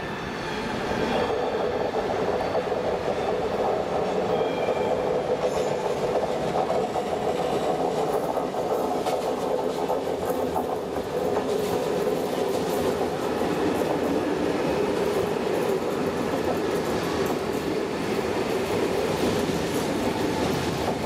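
SNCB AM96 electric multiple unit rolling slowly along the platform. A steady rumble of wheels on rail, with clickety-clack as the bogies cross joints and points.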